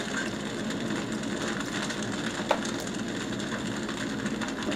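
Steady hum of the room with scattered faint clicks and rustles, and one sharp click about halfway through.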